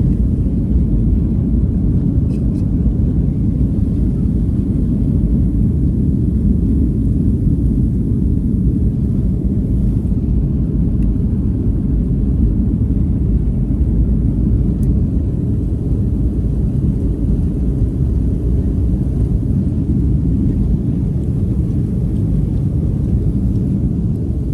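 Steady low rumble of a jet airliner's engines and airflow heard from inside the passenger cabin.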